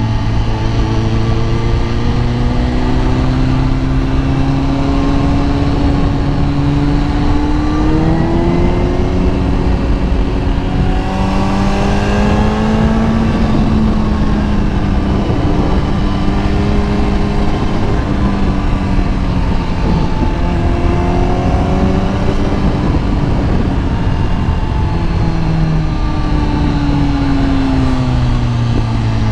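Kawasaki ZX-10R's inline-four engine under way, its pitch climbing and dropping back several times through gear changes and throttle changes, over a steady rush of wind noise.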